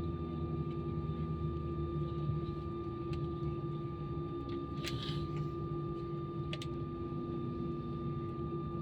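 Steady aircraft cabin noise in an Airbus A320: a low rumble with two steady whining tones, one low and one higher, and a few brief clicks about five and six and a half seconds in.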